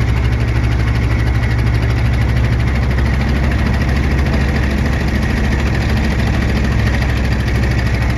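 Boat engine running steadily with a low, even drone, under a steady hiss.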